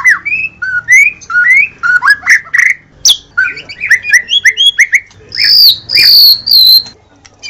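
White-rumped shama singing loudly: a fast, varied run of short whistled and chattering notes, with a few longer, higher whistles about two-thirds of the way through.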